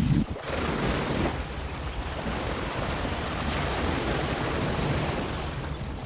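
Ocean surf washing onto the shore as a steady rush, with wind buffeting the microphone in low rumbles.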